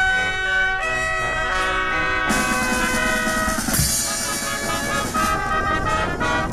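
Brass band playing a march-like tune in held brass chords, with drums and two cymbal crashes, about two and three and a half seconds in.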